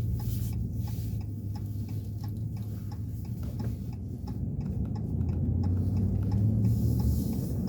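A vehicle's turn signal ticking steadily, about two or three clicks a second, over the low hum of the engine and road.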